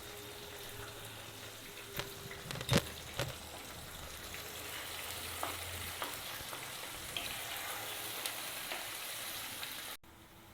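Onion, ginger and garlic paste with chopped tomato frying in plenty of hot oil in a kadai: a steady sizzle, with a few sharp knocks of stirring about two to three seconds in, the loudest near the three-second mark.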